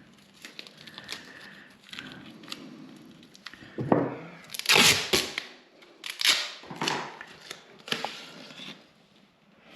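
Masking tape being pulled off the roll and torn, a run of irregular ripping and crinkling noises.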